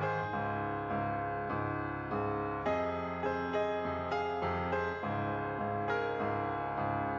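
Background piano music: a gentle melody with a new note or chord every half second or so.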